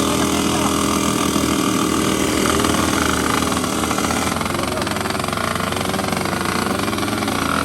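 Two-stroke underbone racing motorcycle engines running loud with a buzzing rattle, the engine pitch rising and falling as they rev from about halfway through.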